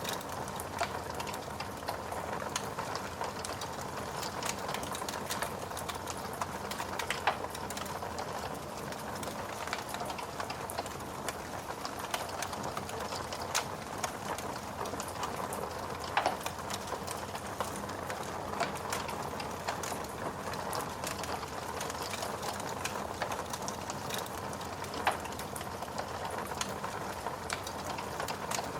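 Wood fire in a fireplace crackling: a steady hiss of burning, dotted with frequent small pops and a few louder snaps.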